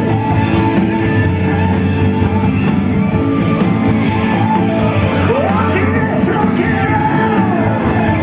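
Rock band music played loud over a sound system, with guitar, steady throughout.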